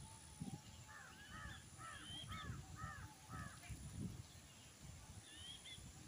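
Birds calling: a run of about six short, arching calls in the middle, with higher chirps above them, over a low, uneven background noise.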